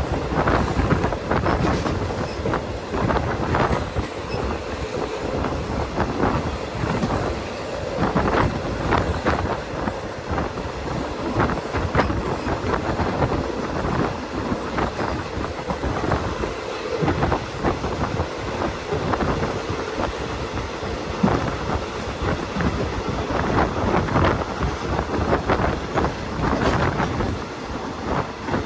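Passenger train running along the line, heard from aboard a carriage: a steady rumble with irregular clacks of the wheels over the rail joints.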